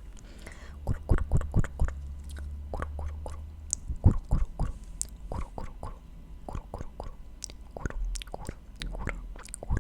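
Close-miked ASMR mouth sounds: an irregular run of sharp, wet clicks and smacks, with a low rumble under the first few seconds.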